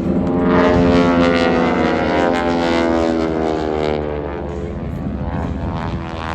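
Propeller airplanes of an aerobatic team making a low pass. The engine drone is loudest about a second in, then falls in pitch as they go by.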